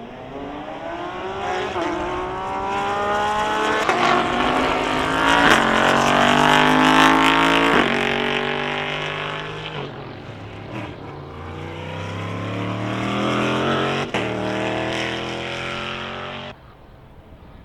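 Race car engine accelerating hard, its pitch climbing and then dropping sharply at each of several upshifts. It is loudest in the middle and cuts off suddenly near the end.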